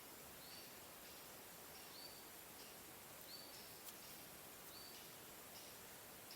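Faint forest ambience: a bird repeats a short, high two-part call about every second and a half over a steady faint hiss.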